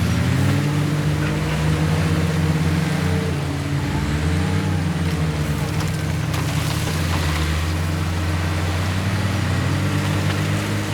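Heavy diesel earthmoving machinery running under load, its engine pitch dipping and rising several times as it works, with more than one engine heard at once.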